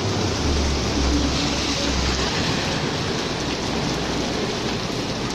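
Heavy rain pouring steadily, with a low rumble underneath during the first couple of seconds.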